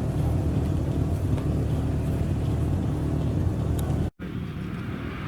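A car engine running steadily at idle, deep and even, with no revving. About four seconds in the sound drops out for an instant at a cut and returns quieter.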